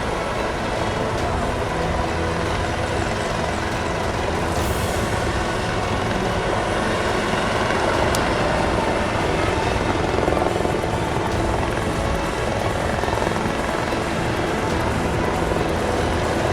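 Helicopter hovering overhead, its rotor and engine running steadily.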